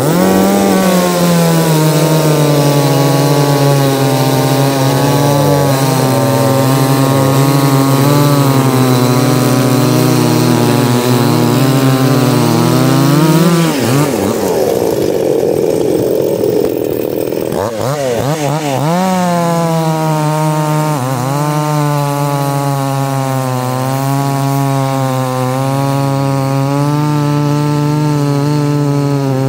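Two-stroke chainsaw running at high revs, cutting wood. About fourteen seconds in the engine note drops away for a few seconds, then revs back up and holds steady.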